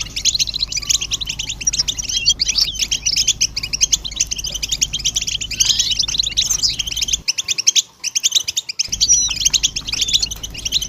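A chorus of European goldfinches twittering and singing together, a dense unbroken run of rapid, high notes. It is a collective mating-call chorus of the kind used to stir male goldfinches into song. A faint low hum underneath drops out for a moment about seven seconds in.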